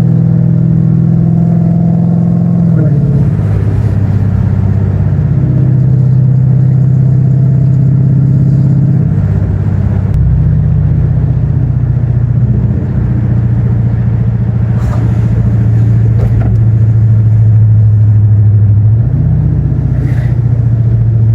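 Dodge Charger's 5.7-litre Hemi V8 running steadily while driving, a loud continuous engine drone. Its pitch drops about three seconds in, then steps up and down a few more times, rising again near the end.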